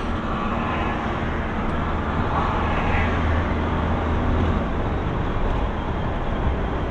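A vehicle's engine running while driving, heard from inside the cabin: a steady low hum under an even rushing road noise.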